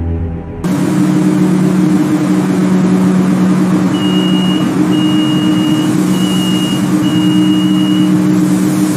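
Heavy motorized machinery running loudly and steadily with a low two-tone hum. From about four seconds in, a warning beeper sounds four high beeps in a row, about a second apart.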